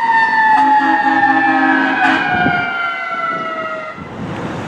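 Fire engine siren winding down, its pitch falling slowly and steadily until it cuts out about four seconds in, over traffic noise. A brief lower steady tone sounds under it early on.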